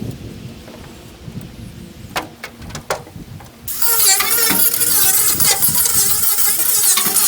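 A few light clicks, then about halfway through an angle grinder with an abrasive wheel starts grinding rust and paint off the steel truck bed: a loud, steady, gritty scraping with a wavering whine.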